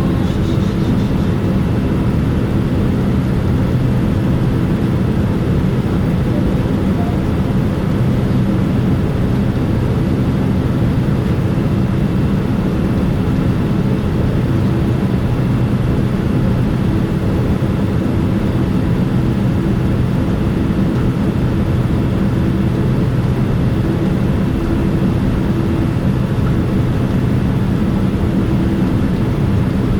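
Steady engine hum and airflow noise inside the cabin of a Boeing 787-9 airliner, with a few constant low drones over a rushing noise that neither rises nor falls.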